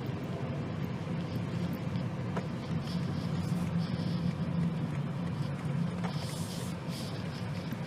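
Interior noise of a BMW 218i Gran Coupe on the move: a steady low hum of road and engine noise inside the cabin.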